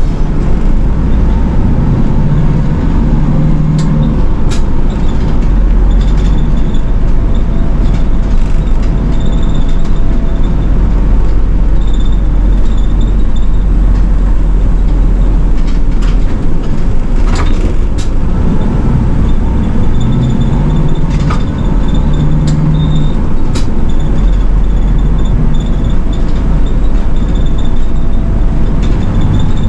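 City bus running along the road, heard from inside the cabin: a steady low engine drone and road rumble, with sharp clicks and rattles. The engine note rises and falls about three seconds in and again about twenty seconds in.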